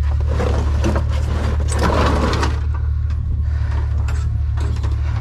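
A steady low rumble like an idling motor, with irregular rustling and clattering of junk being shifted during roughly the first half.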